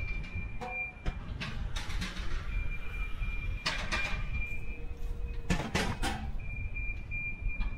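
MRT train running, a steady low rumble with a thin high whine that comes and goes, and several sharp clicks and knocks.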